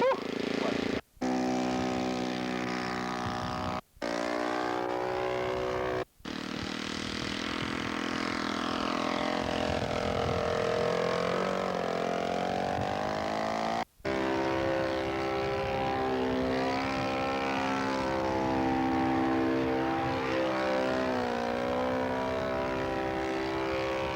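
Radio-controlled model airplane's engine running in flight, its buzzing note sliding up and down in pitch as it flies and changes throttle. The sound cuts out briefly four times.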